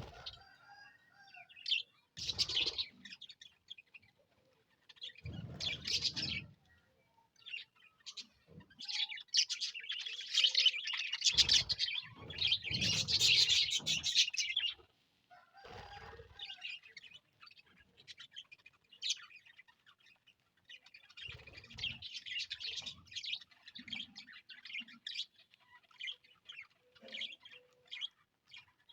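A colony of budgerigars chirping and chattering in irregular bursts, busiest and loudest through the middle, with a few low fluttering thumps under the louder stretches.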